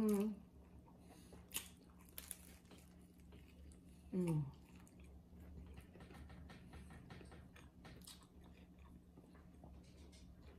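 Close-miked mouth sounds of a person biting and chewing a slice of baked frozen pizza: scattered wet clicks and a few crisp crunches of crust. A short hummed "mm" falls in pitch about four seconds in, over a faint steady hum.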